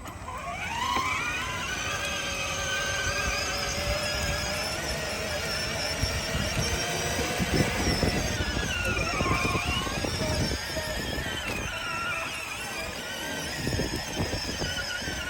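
Electric motors and gearboxes of a ride-on monster truck whining. The whine rises in pitch over the first second as it speeds up, runs fairly steadily, dips in pitch about two-thirds of the way through and comes back, over a low rumble of the wheels.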